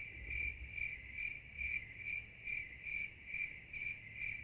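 Crickets chirping steadily, a little over two chirps a second, cut in abruptly over silence: a comic 'crickets' sound effect.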